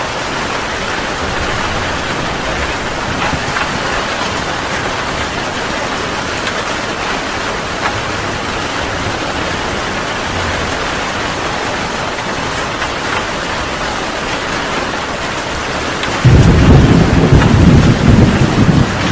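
Heavy rain falling steadily. Near the end a loud clap of thunder breaks in suddenly and goes on rumbling.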